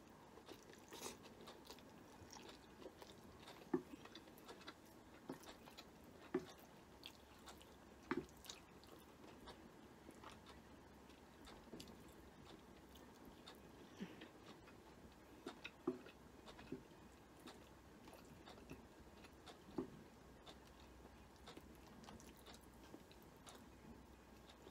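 A person quietly chewing and eating stir-fried egg noodles with chopsticks, with scattered small irregular clicks and mouth smacks.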